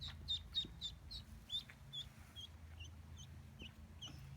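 Duckling peeping: a run of about a dozen short, high, downward-sliding peeps, coming about three a second at first and slowing to about two a second.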